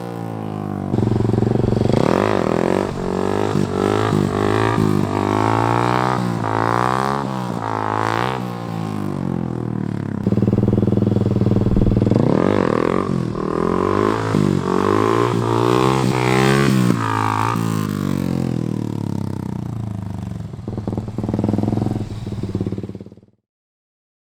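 Dirt bike engine revved hard in first gear for wheelies, its pitch climbing and falling again and again as the throttle is opened and eased off. The sound cuts off suddenly near the end.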